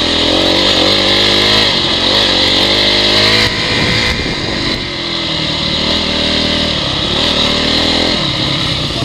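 Honda CRF dirt bike's four-stroke single-cylinder engine running under load, its revs rising and falling repeatedly.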